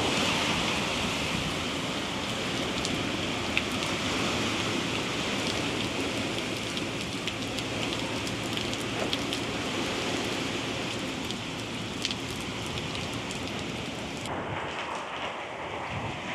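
Heavy hurricane rain pouring down in a dense, steady hiss, with scattered sharp ticks of drops striking a surface. About fourteen seconds in the high hiss drops away abruptly and the rain sounds duller.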